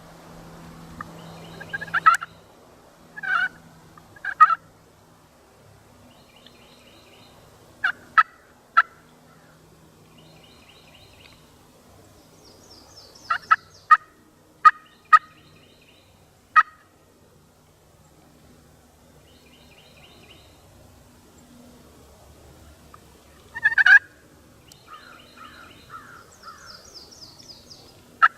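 Wild turkey gobblers gobbling repeatedly, about a dozen loud rattling gobbles, several coming in quick succession and some overlapping as more than one bird answers.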